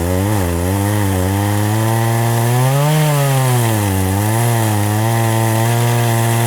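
Two-stroke chainsaw cutting into a very thick tree trunk, its engine pitch repeatedly sagging and recovering as the chain labours under load in the wood.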